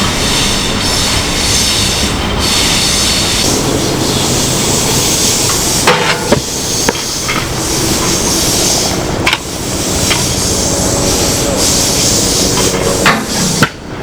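Stunt scooter wheels rolling and grinding on concrete, a loud steady rattling rumble, with a few sharp clacks of the deck and wheels striking the ledge about halfway through and again near the end.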